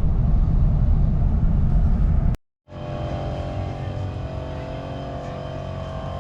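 Car driving, heard from inside the cabin: a loud low engine and road rumble. After an abrupt cut about two and a half seconds in, a quieter steady engine hum holds one pitch, like a motor idling.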